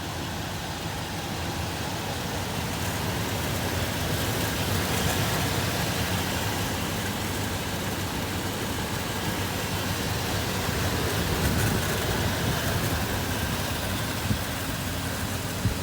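Small-block Chevrolet V8 of a 1986 Chevrolet C10 Silverado pickup running at a steady idle.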